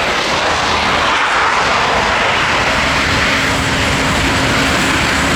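AW249 Fenice attack helicopter in flight, its turbines and rotor making a loud, steady noise.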